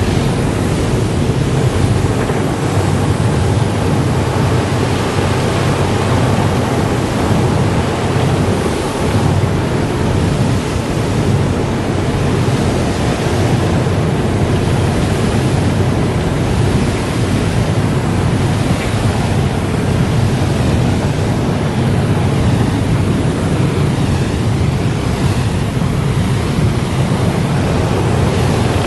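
Car wash running: a steady, loud rush of spraying water with no break or change.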